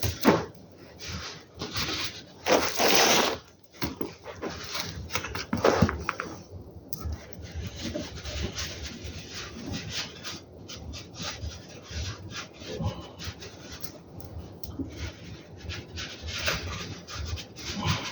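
Hand cleaning of grimy car suspension parts: irregular scrubbing and rubbing strokes. About two and a half seconds in there is a short hiss lasting about a second.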